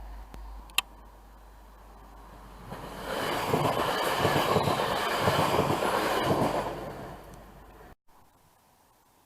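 A train passing by, a rushing noise that builds about three seconds in, stays loud for a few seconds and then fades. A single sharp click comes just before, and the sound drops out abruptly about eight seconds in.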